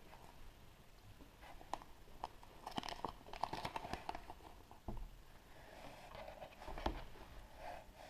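Hands opening a chocolate surprise egg: crackling, crinkling and small clicks of foil wrapper, chocolate shell and plastic toy capsule, with two dull knocks, one about five seconds in and one near the end.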